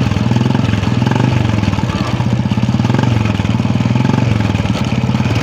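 Royal Enfield Classic 350's single-cylinder engine running and driving a worn-out chain and sprocket set. The noise from the drive is a nasty one, the sign of sprocket teeth worn down and a chain set that needs replacing.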